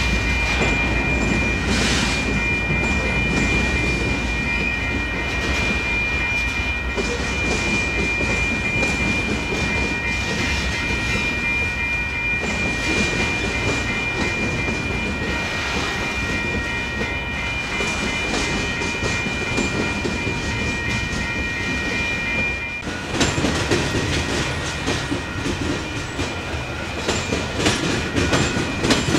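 Loaded covered grain hopper cars rolling past, their wheels clacking over rail joints and the diamond crossings. A steady high-pitched tone rings under the clatter and cuts off about 23 seconds in; after that the clacks come louder and more uneven.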